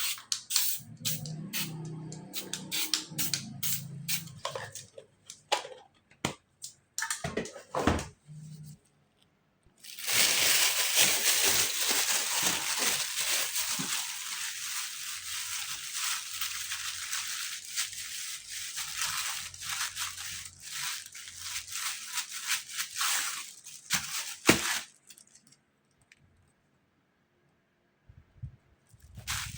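Aerosol spray paint can spraying in one long hiss of about fifteen seconds, starting about a third of the way in and stopping sharply, after a run of quick clicks and scrapes.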